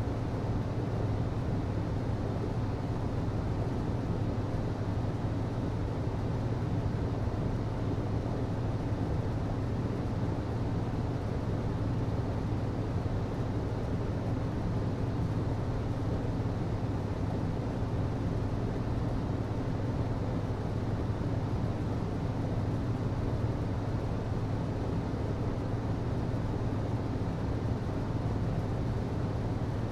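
HVAC system running: a steady low hum with an even rush of air noise over it.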